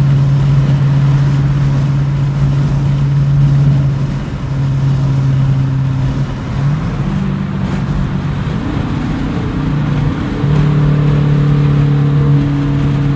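2016 Dodge Challenger R/T's 5.7-litre HEMI V8 and exhaust droning steadily inside the cabin at highway cruise, over tyre and road noise. The drone falters and shifts in pitch around the middle, then settles back to a steady tone.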